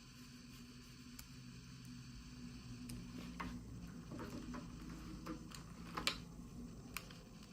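Faint handling sounds: light clicks and taps of small plastic pieces being handled and unpacked, with a sharper click about six seconds in.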